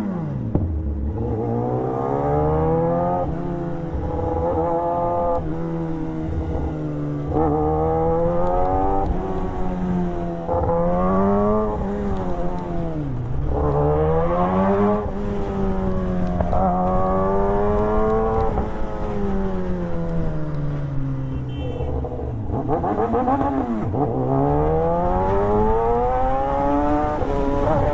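Motorcycle engine accelerating hard through the gears. The pitch climbs steeply and drops at each upshift, over and over. Twice it falls away low and then builds again from low revs.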